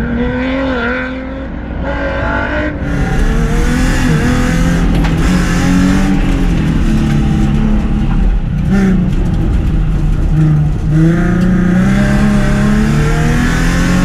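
Race car engine revving hard during an autocross run, its pitch climbing and dropping again and again with the throttle; it gets louder about three seconds in.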